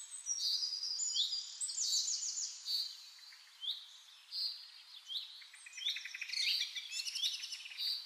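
Birds chirping and calling: many short, sharply sweeping high notes, with quick buzzy trills in the second half.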